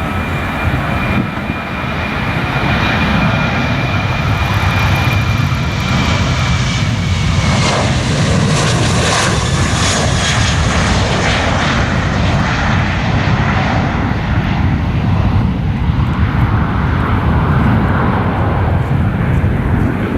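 Departing airliner's engines at takeoff thrust: a loud, steady low rumble with a high whine that dips slightly in pitch and fades about seven seconds in, the hissing roar strongest near the middle as the aircraft passes.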